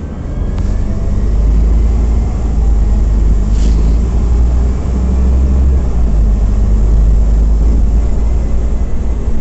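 Scania OmniCity CNG city bus under way, heard from inside: a steady low engine and road rumble that grows louder about a second in, with a brief hiss about three and a half seconds in.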